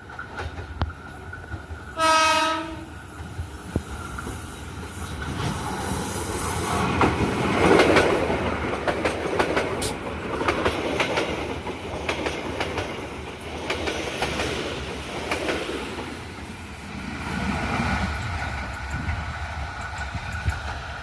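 Passing train: a short horn blast about two seconds in, then the wheels clattering over the rail joints as the cars roll by, loudest around eight seconds.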